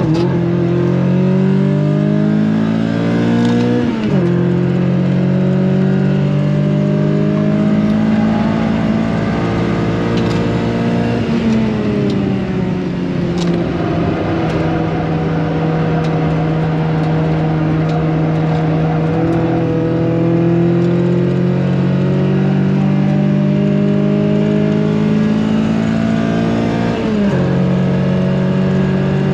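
Renault Clio's engine driven hard on a circuit, its pitch climbing through the revs and dropping sharply at gear changes about four seconds in, around eleven seconds and near the end. In between it sags slowly for several seconds before climbing again.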